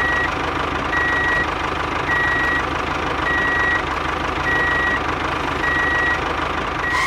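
Vehicle reversing alarm beeping steadily, one high beep a little more than once a second, over a running engine.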